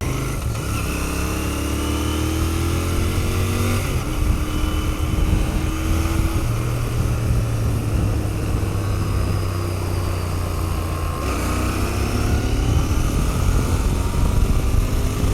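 Royal Enfield Continental GT650's 648 cc parallel-twin engine accelerating hard. Its pitch climbs, drops at an upshift about four seconds in and holds steady, then climbs again in the last few seconds.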